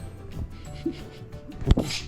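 Hollow 'poku poku' pats of a hand on a long-haired Akita's body, one loud thump near the end, over background music.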